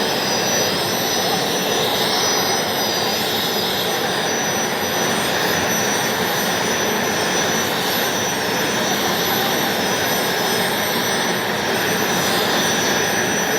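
Helicopter turbine engine running steadily: a loud, even rushing noise with a thin, high, constant whine over it.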